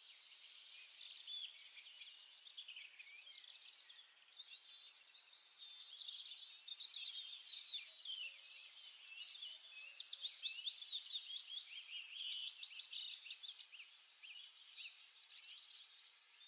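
Faint birdsong: small birds chirping and trilling in quick runs of high notes, growing busier and louder about two-thirds of the way through.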